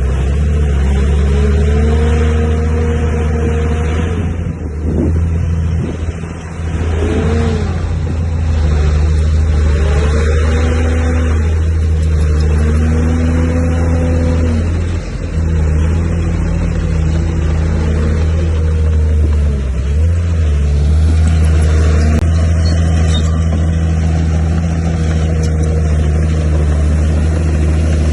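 Diesel engine of heavy earthmoving machinery working under load, its pitch rising and falling again and again as it is revved and eased, with a brief drop about five seconds in.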